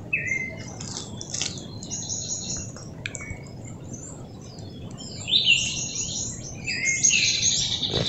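Several birds chirping and calling, many short high calls overlapping, some sliding down in pitch. The calling is busiest in the last few seconds.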